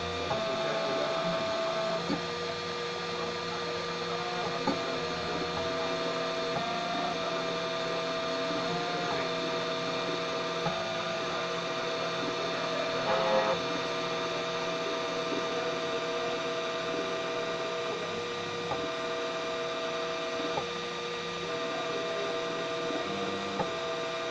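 3D printer's stepper motors running through a print: a steady whine of several tones that shift in pitch every few seconds as the moves change, with a few short ticks.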